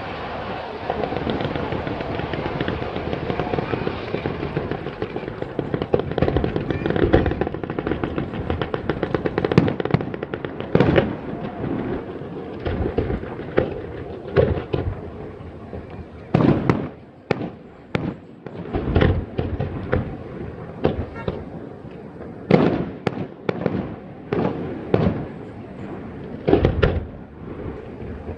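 Fireworks going off: a dense stretch of rapid crackling and popping for the first ten seconds or so, then a run of separate sharp bangs about a second apart until near the end.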